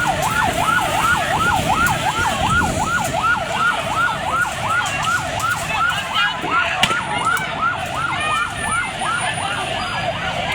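Police vehicle siren on a fast yelp, rising and falling about three or four times a second, over the noise of a crowd.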